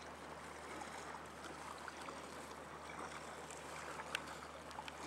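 Water lapping and dripping around a kayak on calm sea, with a few small splashes or drips near the end.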